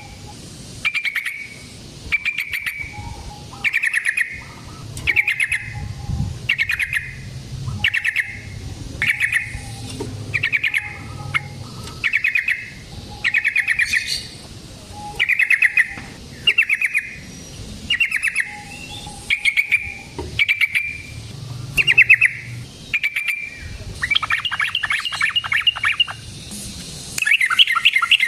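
Yellow-vented bulbul (trucukan) calling over and over in short bubbly, liquid phrases about once a second, breaking near the end into longer rapid chattering runs.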